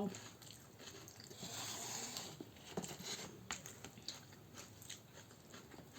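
Faint eating sounds: chewing and biting with scattered small clicks, and a soft hiss lasting about a second, beginning about a second and a half in.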